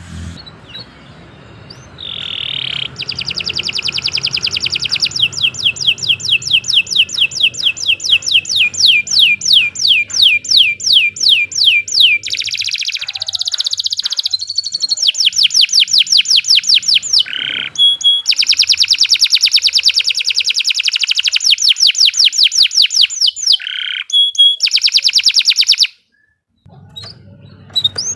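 Domestic canary singing a long, loud song of rapid repeated down-sweeping notes, running into faster, denser trills, with a few short breaks and a brief silence near the end.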